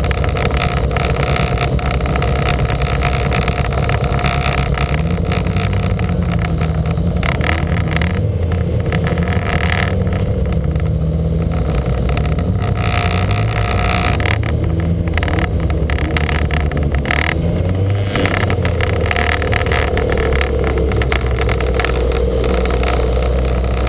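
Lancia Montecarlo's four-cylinder engine racing under load, its pitch rising and falling through gear changes, with lifts of the throttle around eight to twelve seconds in and again about seventeen seconds in. The engine carries a heavy misfire.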